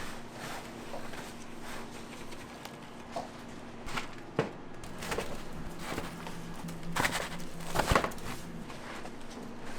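Kitchen work clatter: scattered knocks and clicks of utensils and trays, louder about four seconds in and again near eight seconds, over a steady low hum.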